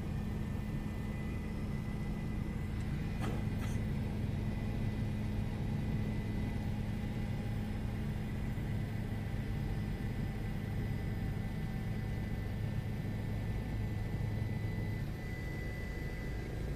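Steady drone of a news helicopter's engine and rotor in the cabin, a constant low hum with a thin high whine over it. A single click about three seconds in, and the low hum eases a little near the end.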